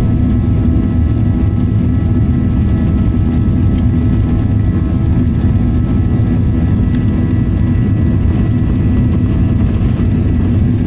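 Steady jet engine and airflow noise inside the cabin of a Boeing 737-900ER: a constant low rumble with a faint steady hum and a high whine over it.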